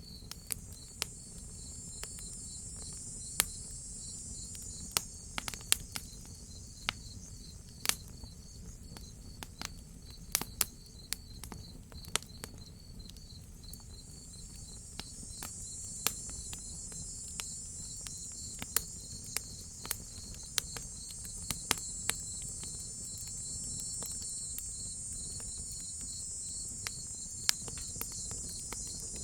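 Crickets chirping in a steady, rapid pulsing trill, with a higher insect hiss that grows louder about halfway through. Over it, a wood fire crackling with scattered sharp pops, over a low steady rumble.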